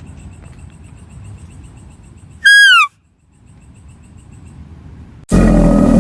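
A single loud, whistle-like animal call about halfway through, held and then falling in pitch, over faint repeating high chirps. Near the end, a loud, rough, noisy sound cuts in suddenly.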